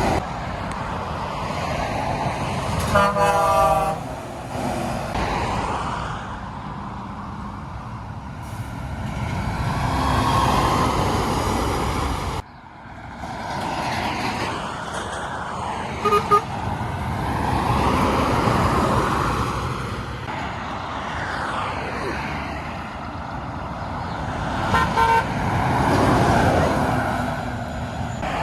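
Heavy trucks passing one after another, their engine and tyre noise swelling and fading, with a truck horn blast about three seconds in and brief toots around the middle and near the end.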